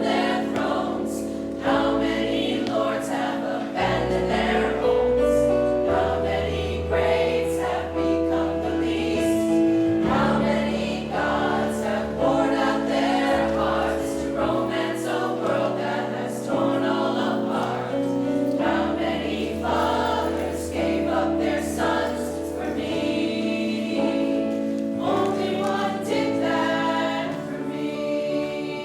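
A choir singing in several parts, holding long notes over low held bass notes.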